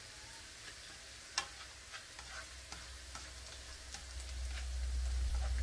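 Minced garlic, onion and chili frying in oil in a frying pan: a faint sizzle with scattered crackles and one sharper pop about a second and a half in. A low rumble rises over the second half.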